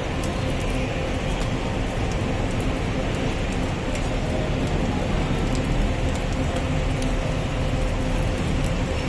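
Noodles stir-frying in a wok: a steady rushing noise with scattered light crackles and clicks.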